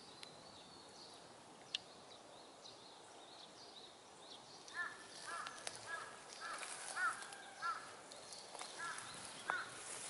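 Birds calling: a few faint high chirps in the first second or so, then from about five seconds in a run of short, arching calls repeated many times at uneven spacing.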